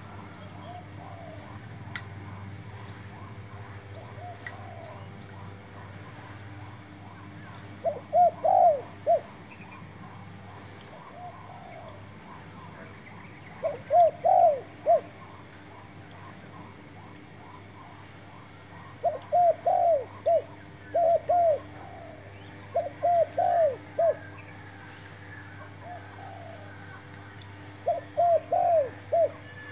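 Spotted doves cooing: about five loud phrases of several quick rising-and-falling coos, with fainter coos in between.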